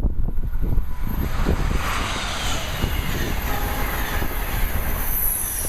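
Amtrak HHP-8 electric locomotive and its train passing at speed: a rushing of wheels on rail, with faint tones sliding down in pitch as it goes by. Wind buffets the microphone.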